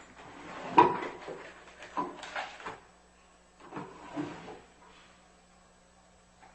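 A drawer being opened and handled: a sharp knock about a second in, then two short runs of rattling and knocking that stop about four and a half seconds in.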